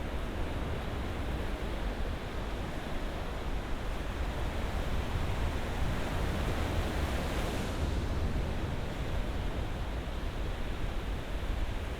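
Ocean surf: a steady wash of waves, with one wave swelling and breaking a little brighter about seven or eight seconds in.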